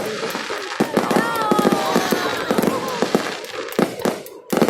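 Fireworks display going off: dense, rapid crackling and popping, with a short lull near the end before another loud burst.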